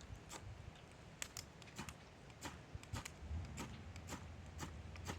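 A fire starter struck again and again: short, sharp scraping strikes, about two a second and slightly uneven, made while trying to throw sparks into tinder.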